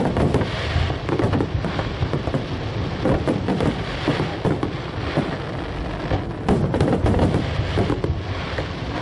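Fireworks display going off continuously: a dense run of overlapping bangs and crackles over a steady rumble, with no let-up.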